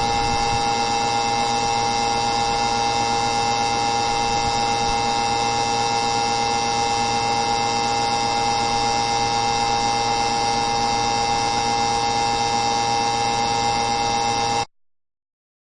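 A steady hum of several fixed tones over a hiss, unchanging until it cuts off abruptly near the end.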